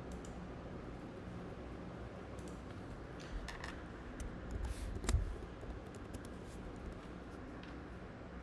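Steady low room hum with a few faint clicks, and a soft low thump about five seconds in.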